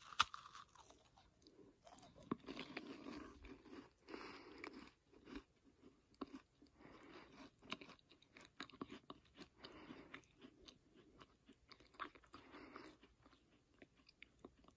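A person biting into a macaron and chewing it, faintly: soft crunching of the crisp shell and chewing in irregular bursts, with a sharp crunch of the bite right at the start.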